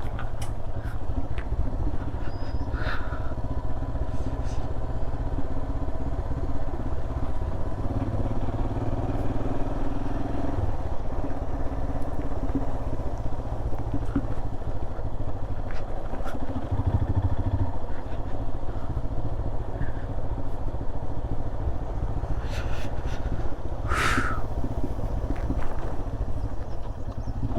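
Royal Enfield Himalayan's 411 cc single-cylinder engine running steadily as the motorcycle is ridden.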